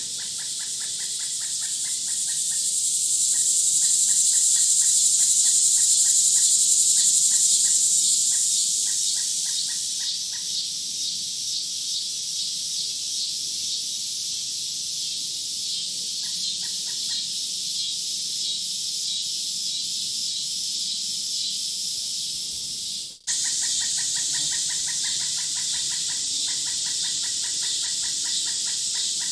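Woodland nature ambience: a steady, high-pitched, rapidly pulsing chorus of calls that swells a few seconds in and then settles. Near the end it cuts out for an instant and resumes.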